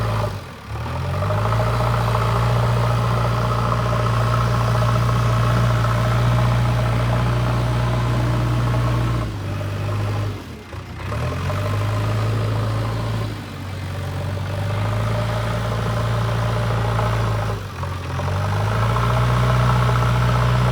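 JCB 3DX backhoe loader's diesel engine running steadily at work. It briefly drops in level and pitch four times, then picks back up.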